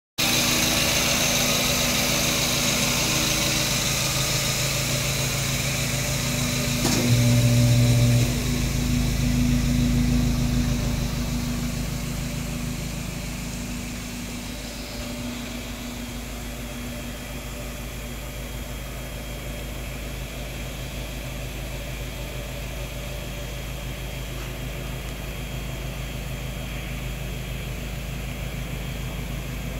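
Exhaust note of a CMC J Space van's 1.5-litre naturally aspirated engine, breathing through an aftermarket header, 300-cell metal catalytic converter, centre single muffler and 89 mm stainless tip. It runs louder for the first ten seconds, with two brief surges about seven and nine seconds in, then settles to a steady, quieter idle.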